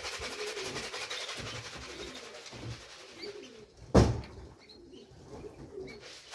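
Racing pigeons cooing over and over, with one sharp knock about four seconds in.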